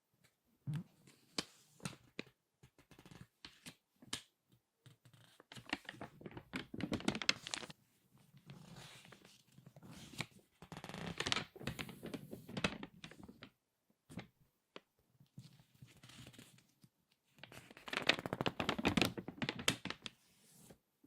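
Crinkly magazine pages being turned and squeezed: scattered sharp crackles, with three longer spells of dense crinkling.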